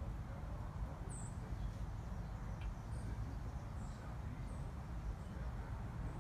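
Faint, short, very high-pitched bird chirps, about four of them spaced a second or so apart, over a steady low rumble.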